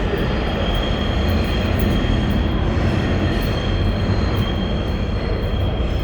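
New York City subway train coming into the station: a steady, loud rumble of wheels on rail with a thin high whine of wheel squeal over it.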